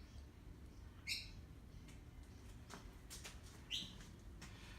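A bird chirping twice, two short calls about two and a half seconds apart, over a faint low background hum.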